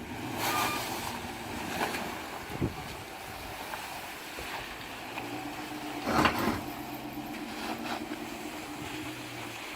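Wind rushing on the microphone over a vehicle's engine, with a louder thump about six seconds in.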